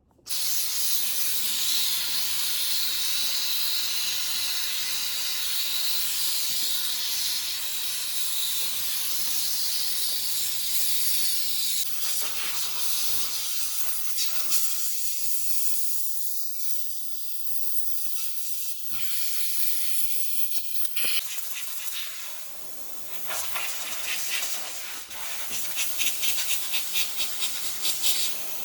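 Hissing spray from a cleaning nozzle working over a car engine bay: it starts abruptly, runs steadily, then breaks into shorter bursts with pauses, and ends in quick repeated spurts.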